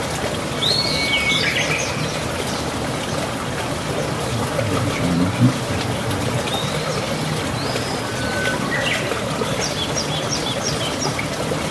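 Small birds chirping and whistling in short bursts, a quick run of high chirps near the end, over a steady rushing noise.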